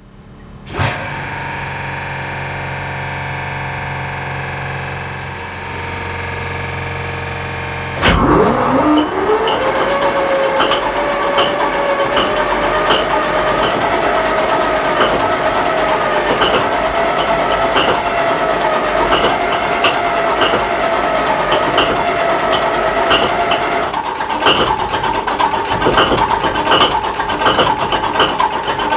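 Paxman VP185 V12 diesel of a Class 43 HST power car starting from cold: a steady mechanical hum from the start sequence, then about eight seconds in the engine fires with a sudden bang and runs up with a quickly rising whine. It then settles into steady running with rapid, regular ticking.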